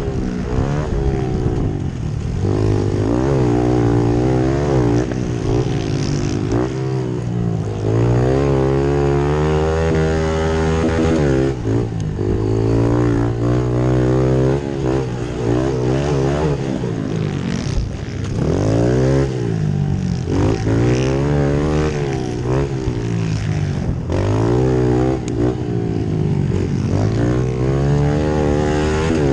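Small single-cylinder pit bike engines revving hard, their pitch climbing and dropping again and again as the bikes accelerate and back off.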